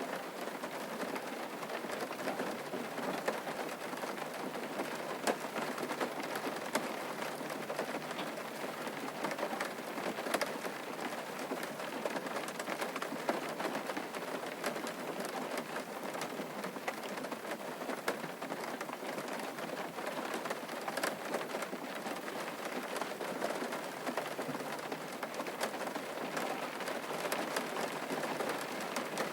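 Steady rain falling on a surface, with many separate drops ticking through the steady patter.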